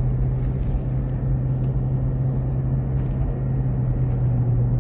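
Steady low engine and road drone heard from inside a moving car, with no change in speed.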